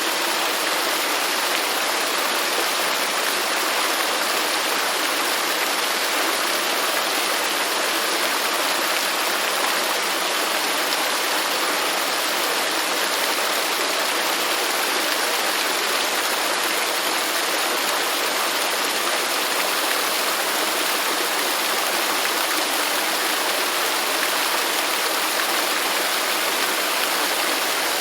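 Waterfall: falling water splashing in a steady, even rush with little deep rumble.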